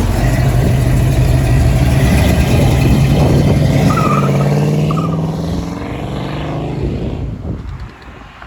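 Loud car engine running at steady high revs for about five seconds, then dropping and dying away near the end.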